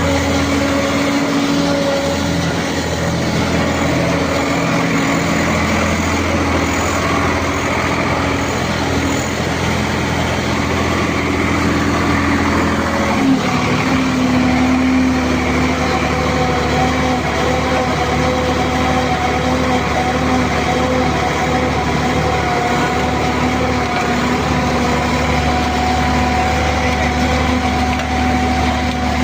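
Tractor's diesel engine running steadily under the hydraulics of a tractor-mounted pile machine. About halfway through there is a brief knock and the engine note steps slightly higher and holds.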